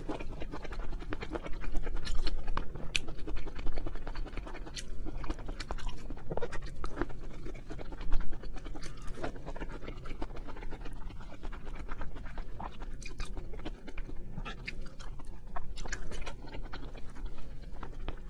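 Close-miked chewing of seafood, with irregular wet mouth clicks and crunches.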